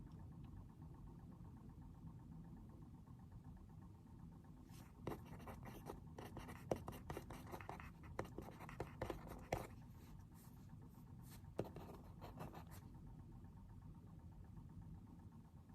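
Pen or pencil writing on paper: a run of quiet, irregular scratching strokes with a few sharp taps, starting about five seconds in and stopping a few seconds before the end, over a faint steady low hum.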